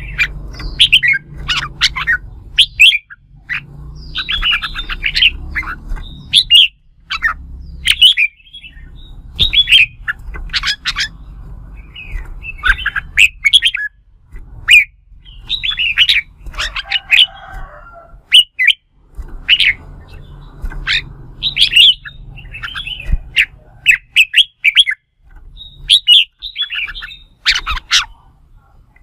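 Red-whiskered bulbuls in competitive 'fighting' song: loud, short, rapid chirping phrases repeated one after another. A low rumble comes and goes underneath.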